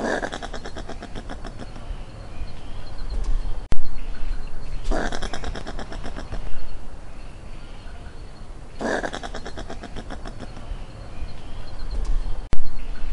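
Opossum chewing corn kernels off the cob: four bursts of rapid crunching, each lasting a second or two, with two sharp clicks between them.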